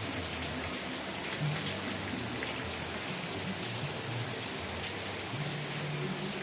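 Steady rain falling, an even hiss with sharp individual drops ticking now and then. A low rumble swells and fades underneath.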